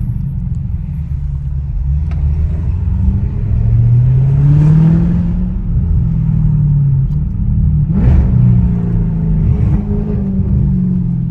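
Straight-piped Audi S7 exhaust running loud under acceleration. The engine note climbs twice, once about a third of the way in and again a little past halfway, then eases off near the end.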